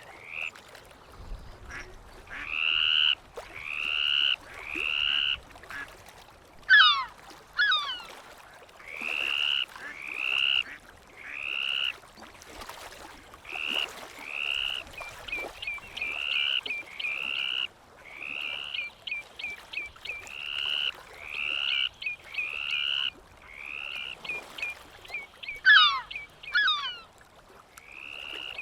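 A bird calling over and over: clear, arched calls about half a second long, roughly one a second. Twice a pair of sharp falling calls cuts in, and there are runs of quick short notes between them.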